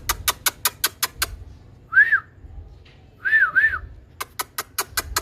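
Rapid sharp clicks, about six a second, then one short rise-and-fall whistle and a quick pair of them, then another run of clicks, from a green ringneck parrot and its owner coaxing it.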